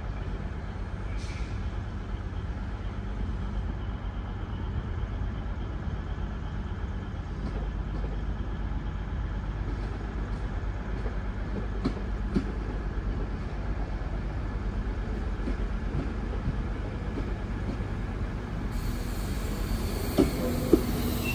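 Class 196 diesel multiple unit running with a steady low engine drone, arriving at the platform, with a few sharp clicks near the end.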